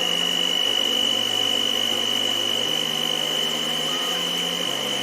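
A household electric appliance motor running at a steady high-pitched whine, with soft background music underneath.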